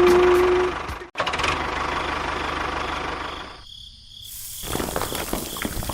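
Small motor of a DIY miniature tractor running steadily, broken by an abrupt cut about a second in. From about two-thirds through, dense irregular crackling and rattling takes over.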